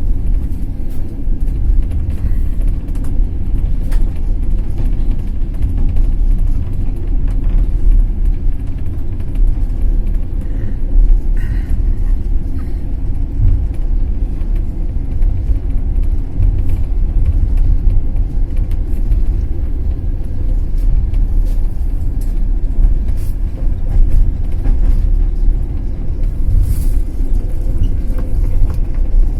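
Passenger train rolling along the track, a loud steady low rumble of wheels on rails with a few faint clicks scattered through it.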